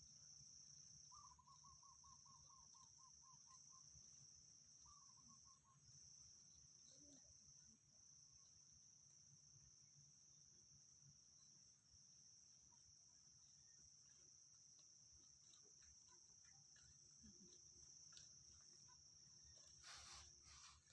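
Faint, steady high-pitched insect trilling. A brief rapid series of pulsed notes comes about a second in, and a short burst of noise near the end.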